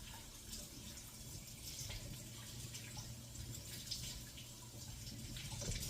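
Steady sound of falling water: an even hiss with scattered drips and splashes, over a low steady hum.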